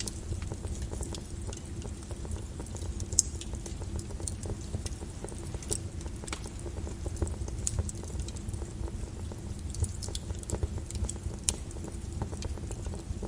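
Volcanic lava flow: a steady low rumble with scattered sharp crackles and pops at irregular intervals.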